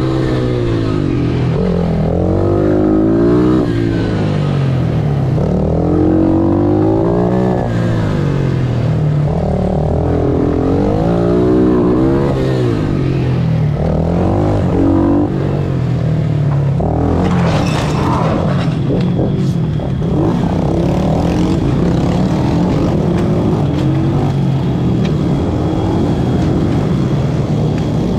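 Pit bike engine revving up and down hard through the gears under race load. About halfway through the revving stops as the bike crashes on the wet track, with a brief scraping burst a few seconds later. The engine then runs on at a steady, lower speed.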